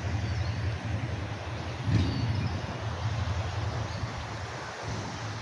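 Outdoor ambience: a steady low traffic rumble over the hiss of a river running high, with a faint bird chirp about two seconds in.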